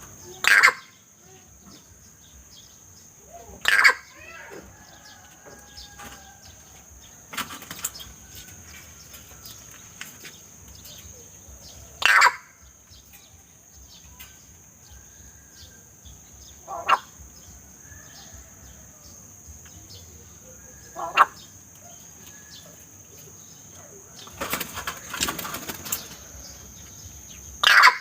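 Loud, sharp bird calls, one about every four seconds, with a denser run of calls near the end, over a steady high-pitched insect drone.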